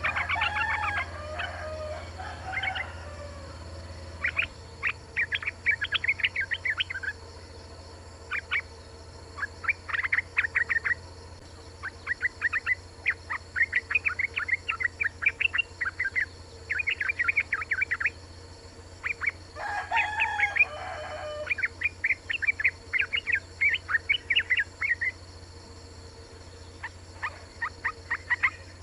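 Female yellow-vented bulbul (trucukan) calling: bout after bout of rapid, high chattering notes, each bout lasting a second or two, the kind of call used to lure males into singing. Twice, at the start and about twenty seconds in, a longer and lower call is heard, over a steady low hum.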